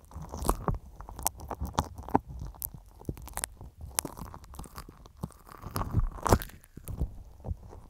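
Slime being squished and handled close to an earphone microphone: dense, irregular crackling clicks and pops, the loudest about six seconds in.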